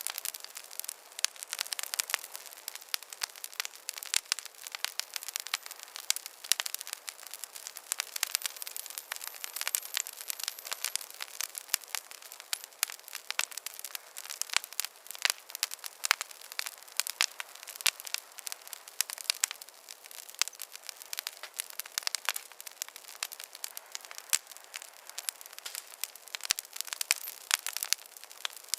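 Campfire burning, with a dense, continuous crackle of sharp pops and snaps from the burning wood.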